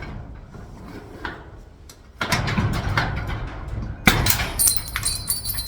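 Metal door-lock parts clicking and clattering against a garage door as they are worked into place by hand, with a sharp knock about four seconds in and a brief high metallic ring near the end.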